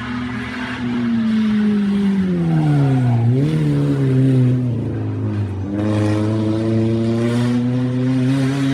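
Rally car engine coming off the throttle, its note falling for about three seconds, then pulling away with the engine note climbing steadily.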